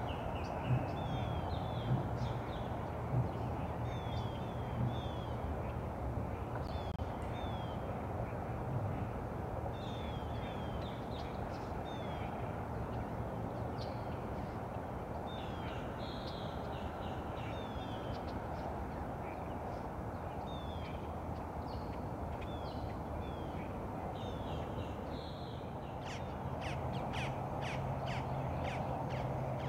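Birds calling: short high notes that slide down, often in twos and threes, repeated throughout, and a run of sharp rapid calls near the end, over a steady low background hum.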